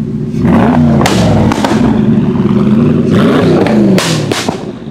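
Noble M600 Speedster's Yamaha-derived 4.4-litre twin-turbo V8 pulling away in two bursts of revs that rise and drop back. Sharp exhaust pops and bangs crack out about a second in and again near the end, from what is believed to be an anti-lag system.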